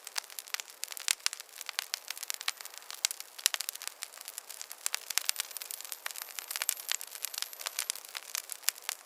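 Wood fire crackling steadily in a fireplace, a dense run of sharp irregular snaps and pops over a soft hiss, with a few slightly heavier pops.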